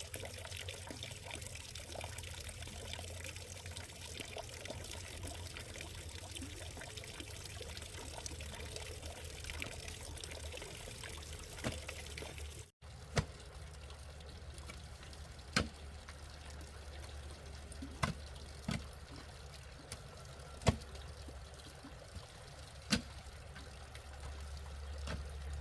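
Water trickling steadily. After a cut about halfway through, half a dozen sharp knocks sound over it, a couple of seconds apart.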